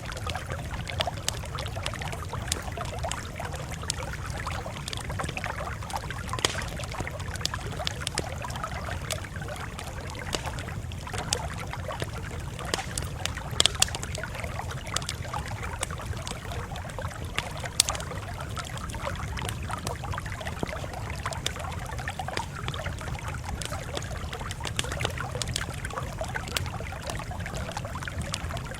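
Campfire crackling steadily, with many small sharp pops and snaps over a low rumble, and a few louder pops, two close together about 14 seconds in and another near 18 seconds.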